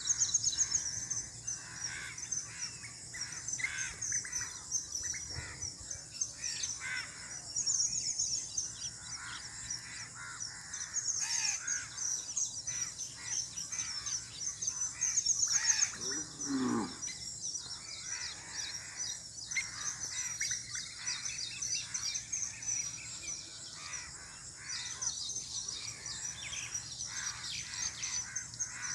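Songbirds chirping and twittering in a busy outdoor chorus of quick, high-pitched notes and trills. About halfway through, a single lower call slides down in pitch.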